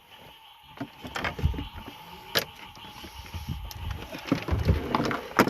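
Irregular knocks, clicks and low thumps of gear being moved and a large alligator gar being laid on the boat's deck, with a sharp knock near the end.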